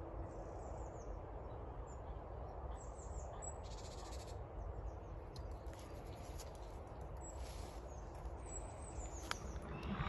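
Quiet outdoor ambience with a steady low background rumble and a few faint, scattered bird calls. There is a sharp click a little after nine seconds in.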